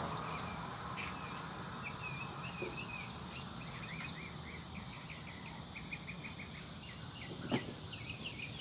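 A small songbird chirping in quick runs of short high notes over steady outdoor background noise, with one brief knock near the end.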